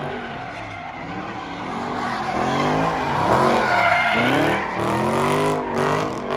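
Car engine revving hard in rising and falling swoops with tires squealing, as in a burnout, getting louder about two seconds in.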